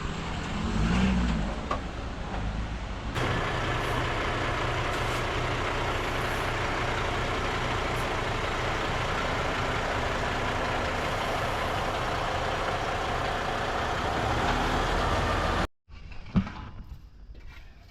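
Semi-truck's diesel engine running steadily, stepping up to a higher, steady speed about three seconds in. It cuts off suddenly near the end, leaving faint outdoor sound.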